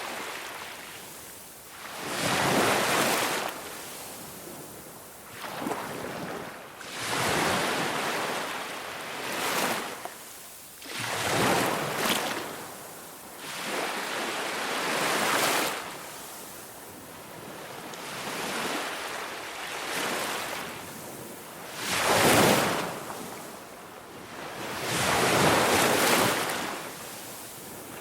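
Waves breaking on a beach, each one swelling to a rush of surf and fading as it washes back, one every two to three seconds.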